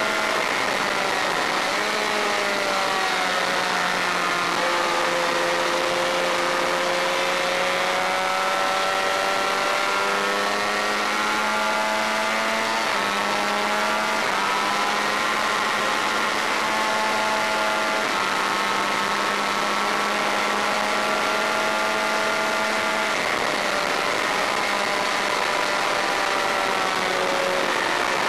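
Onboard sound of a Honda VFR400 V4 race bike at speed, the engine note climbing steadily and then dropping a step several times as it shifts gears or slows for corners. Wind rush runs underneath.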